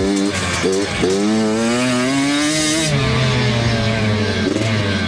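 Two-stroke 65cc dirt bike engine being ridden hard under throttle. Its pitch climbs for about two seconds, drops off sharply, then climbs briefly again near the end.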